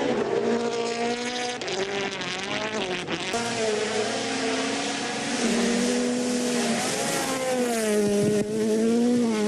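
WRC rally car engine running hard. Its pitch climbs and drops with several abrupt gear changes as the car accelerates and lifts off.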